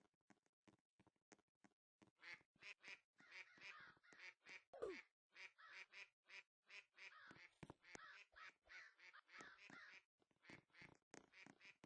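Birds calling in a quick run of short, repeated calls, about three or four a second. They are faint at first and grow louder after about two seconds, with one brief downward-sliding note near the middle.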